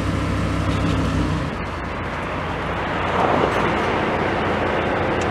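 Audi R8 V10 Spyder's 5.2-litre V10 idling with a steady low hum that drops away about a second and a half in, leaving a steady rushing noise that swells briefly about three seconds in.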